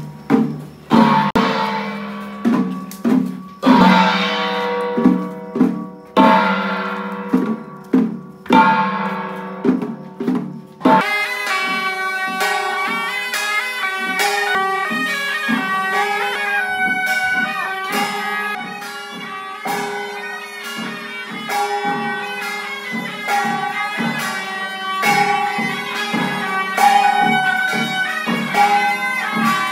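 Traditional temple-procession music. For about the first eleven seconds there are ringing percussion strikes about once a second, each one dying away. Then a continuous reedy wind melody, in the manner of the suona, begins over quick percussion strokes.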